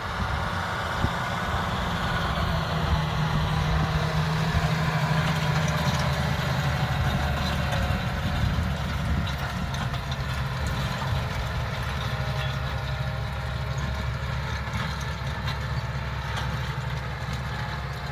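A vehicle engine running steadily with a low hum and mechanical rattle throughout.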